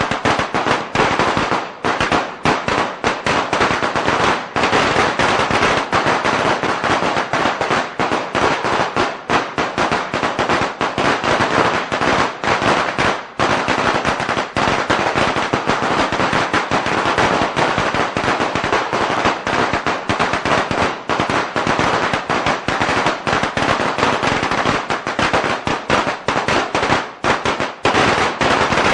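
A long string of Chinese firecrackers (biānpào) going off in a dense, unbroken crackle of rapid sharp bangs.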